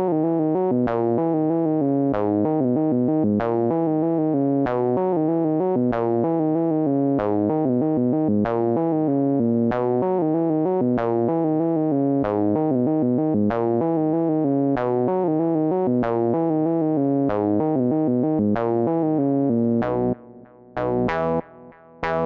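A solo synthesizer keyboard part plays sustained, shifting chords with a steady pulse of note attacks. About twenty seconds in it changes to short detached chords separated by brief gaps.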